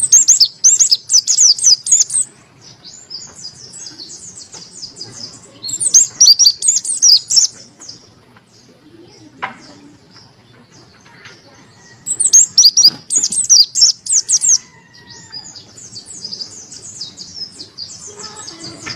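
A white-eye (pleci) singing. Three loud spells of fast, high, chattering song, each about two seconds long, come at the start, near the middle and about two-thirds of the way through, with softer twittering between them.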